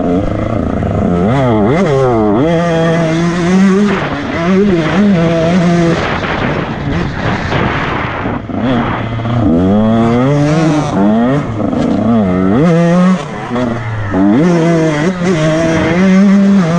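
Motocross bike engine revving hard and easing off over and over, its pitch climbing with each burst of throttle and dropping sharply at shifts and corners.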